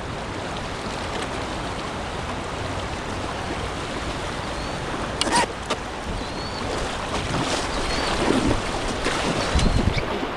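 River current rushing steadily around a kayak, with paddle splashes. There is a sharp splash about five seconds in and livelier splashing near the end.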